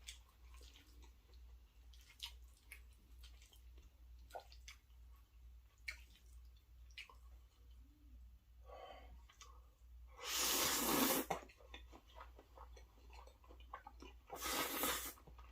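Close-miked chewing of pasta: soft wet mouth clicks and smacks throughout, with two loud breathy rushes of air, one about ten seconds in and a shorter one near the end.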